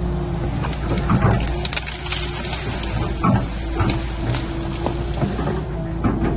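Excavator engine running steadily under a low drone, with frequent short knocks and clanks of the machine at work.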